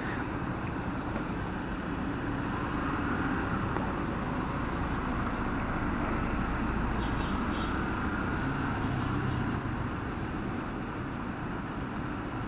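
Yamaha FZ16 motorcycle with its single-cylinder 150cc engine running steadily on the road, mixed with wind and surrounding traffic noise. A faint rising whine comes in about halfway through.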